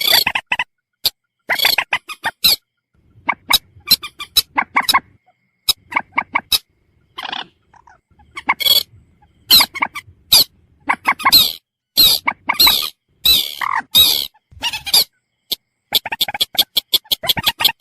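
Common moorhen calling: repeated short, harsh notes in quick clusters with brief pauses between them, ending in a fast run of clipped notes.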